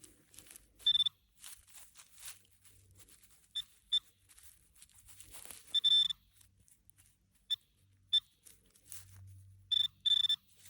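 Handheld metal-detecting pinpointer giving short, high beeps, some single and some in quick pairs, as it is worked through freshly dug soil to find a coin. Faint scraping and rustling of dirt comes between the beeps.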